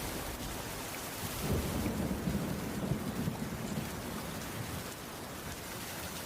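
Heavy rain falling steadily, with a low rumble of thunder that swells about a second and a half in and fades by about four seconds.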